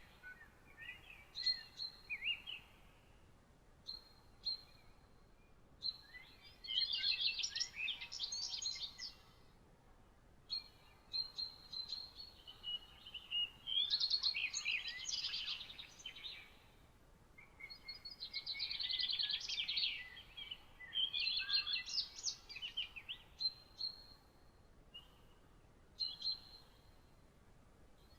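Songbirds singing: bursts of song made of rapid high notes, each a couple of seconds long, come several times. Short thin single notes sound in the gaps between them.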